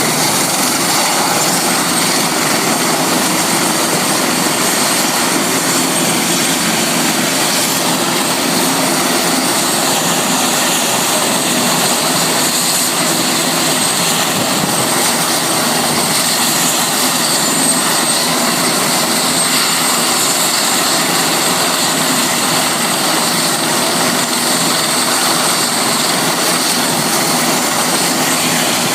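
Helicopter running steadily: a constant loud rushing noise with a thin, high, steady whine on top.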